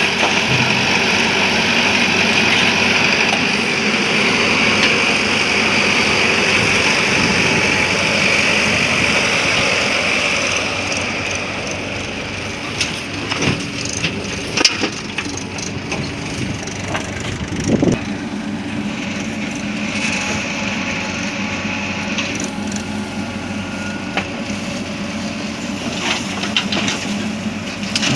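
JCB backhoe loader's diesel engine running steadily, dropping somewhat about ten seconds in. Scattered knocks and clunks follow, typical of the loader's bucket and soil being loaded into a tractor trolley.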